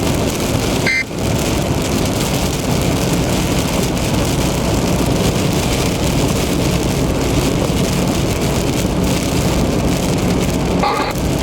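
Heavy rain on a car driving on the interstate, over steady road and tyre noise. A short high tone sounds about a second in, and a brief multi-pitched tone comes near the end.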